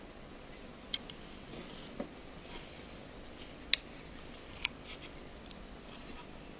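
Small sharp clicks and light scraping of a precision screwdriver and tiny screws being fitted into an iPhone 5's main board, about seven scattered ticks.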